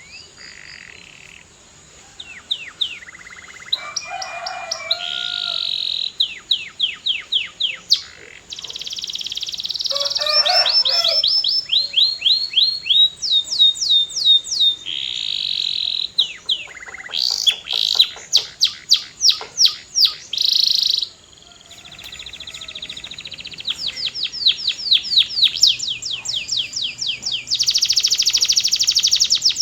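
Canary singing a long, varied song of phrases made of fast trills and rapidly repeated notes. The loudest, longest rolling trills come near the end.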